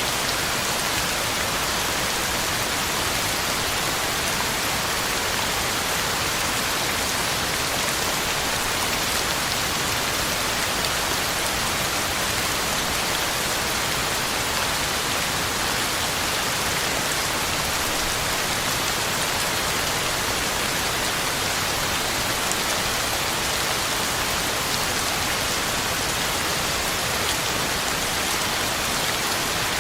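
Heavy rain falling steadily, a dense, even hiss of drops on the ground and leaves, with no thunder.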